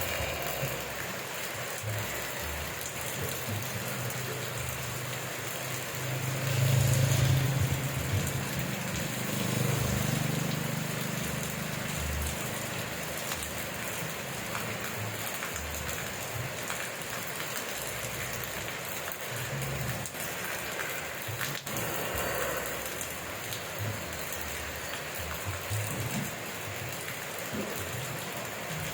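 Steady rain falling on surfaces, with a low rumble swelling up about six seconds in and fading over the next few seconds.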